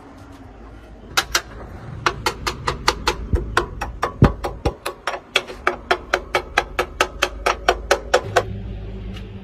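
Hammer blows on metal, a rapid even run of about four strikes a second that lasts some seven seconds and then stops.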